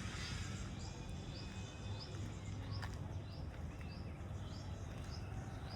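A bird calling a short, high rising chirp over and over, about twice a second, with a thin steady high whine and a low steady hum underneath.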